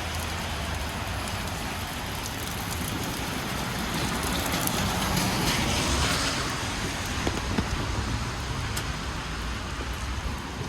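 Steady rain with city traffic hissing over a wet road, a low rumble of engines underneath; a vehicle swells past around the middle.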